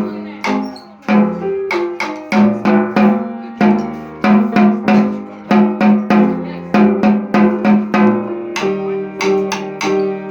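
Instrumental music with a snare drum playing along over pitched, ringing notes at a steady beat.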